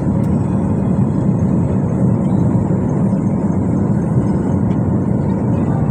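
Steady cabin noise of a jet airliner: an even, loud low rumble of engines and airflow, with no break or change.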